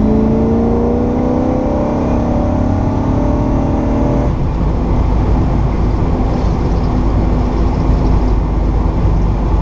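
1964 Pontiac GTO's 389 V8 with Tri-Power carburetion, heard from inside the car, pulling under acceleration with its pitch rising steadily for about four seconds. The rising note then breaks off abruptly and the engine settles into a steady lower drone under road rumble.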